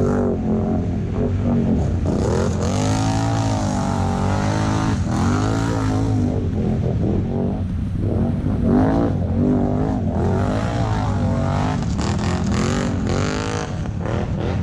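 ATV engine running under load, its pitch rising and falling again and again with the throttle.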